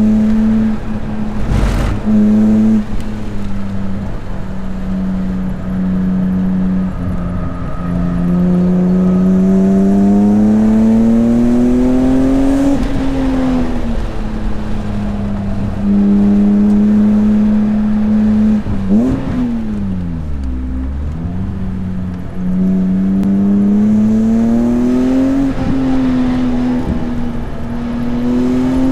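BMW S54 3.2-litre straight-six in an E36 M3, driven hard on a track. The engine note climbs steadily under acceleration, drops sharply at each upshift and off the throttle, and falls low for a moment before climbing again, about two-thirds through.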